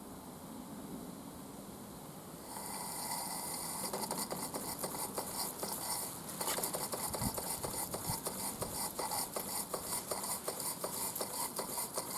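Mamod SP8 toy steam beam engine under steam: a steady hiss, then from about four seconds in a fast, uneven run of clicks and puffs as the engine labours. It is running poorly, which the owner calls not running well.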